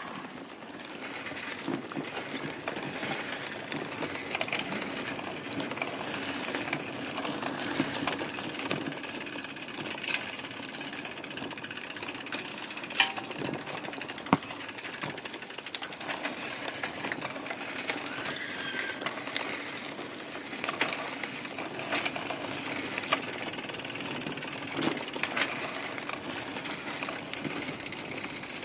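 Steady rattling and road noise of a bicycle being ridden, with scattered sharp clicks and knocks, two louder ones about halfway through.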